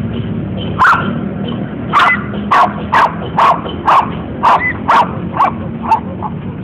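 Kintamani dog barking: one bark about a second in, then a run of short, sharp barks at about two a second.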